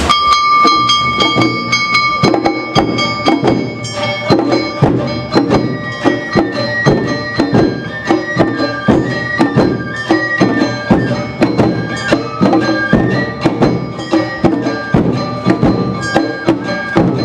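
Live Awa Odori festival music: a bamboo flute holds one high note, then plays a moving melody from about four seconds in, over a steady, evenly spaced beat of drums and other percussion.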